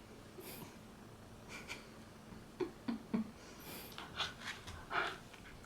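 Faint, scattered sounds of a Shetland sheepdog puppy at play: short sniffing or snorting breaths and a few light knocks, three of them close together about halfway through.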